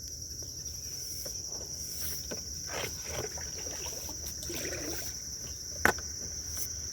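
A steady, high-pitched chorus of insects, with faint water splashes and a single sharp knock about six seconds in.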